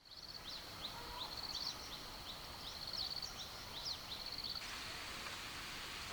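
Birds chirping, with quick repeated notes, rapid trills and short sweeping calls, over a steady high insect drone. The bird calls stop about four and a half seconds in, leaving an even background hiss with the drone.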